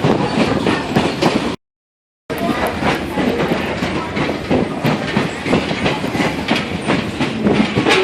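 Passenger train rolling along the track, heard from on board: steady rumble with wheels clicking over the rails. The sound cuts out completely for under a second about a second and a half in, then carries on.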